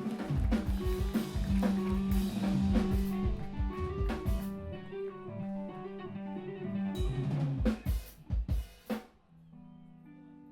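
Live screamo band with drum kit, bass and electric guitar playing hard, with dense drum hits over held low notes. It ends on a few big accented hits about eight to nine seconds in, then drops to a steady held tone near the end.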